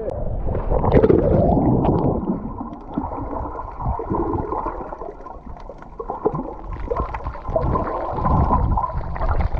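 Muffled sloshing and gurgling of seawater around a camera held at or below the surface while swimming, with scattered small knocks.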